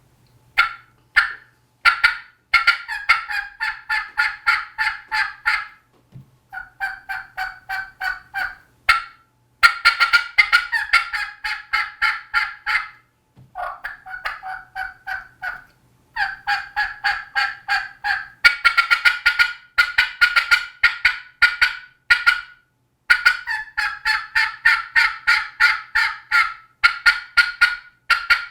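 Black Betty three-reed latex diaphragm turkey mouth call with a modified snake tongue cut, played in a long series of raspy hen yelps and cutts: quick runs of short notes separated by brief pauses.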